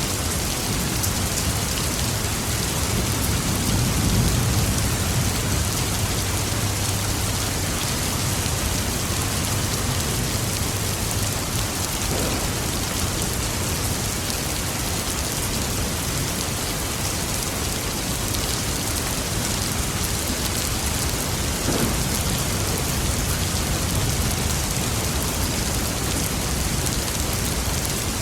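Steady heavy rain hissing, with a low rumble of distant thunder rolling from about three seconds in and fading out about ten seconds later.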